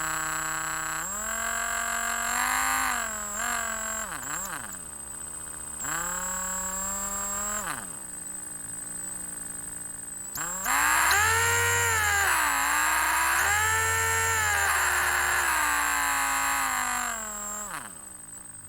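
Electric drill motor run in a series of goes: each winds up, holds its speed and winds down again, with the pitch sagging and recovering as the speed changes. The last and loudest run, in the second half, dips in speed twice before winding down near the end. A faint high, steady whine runs underneath.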